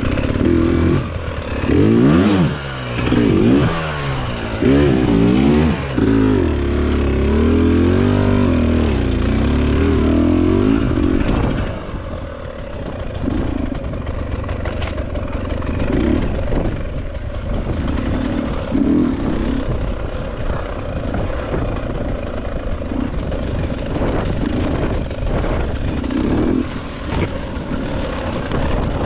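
Enduro dirt bike engine revving up and down repeatedly for about the first twelve seconds, then running at lower revs with scattered short knocks.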